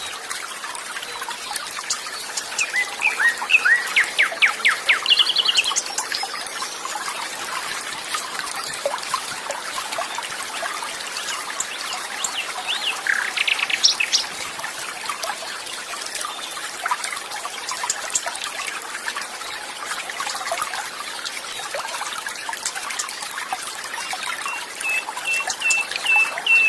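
A stream trickling and flowing steadily while birds sing over it: a fast series of chirps a few seconds in, more calls about halfway, and a run of short repeated whistled notes near the end.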